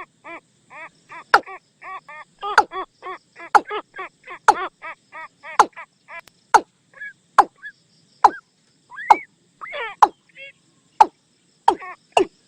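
Watercock calls: a quick run of short, repeated hollow notes about three a second, then sparser calls, with sharp clicks among them.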